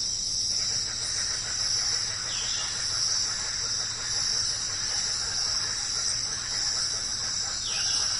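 Jungle night ambience: a dense insect chorus keeps up a steady high buzz over a soft hiss of rain. A short falling call sounds twice, about two seconds in and near the end.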